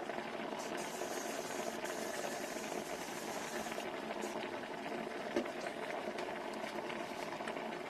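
Handheld travel steamer running steadily: a constant hum with a hiss of steam, the hiss stronger for about three seconds near the start.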